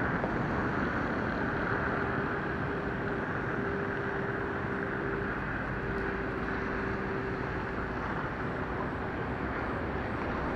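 Jet airliner engines, a steady rushing rumble, with a faint steady tone over it for several seconds in the middle.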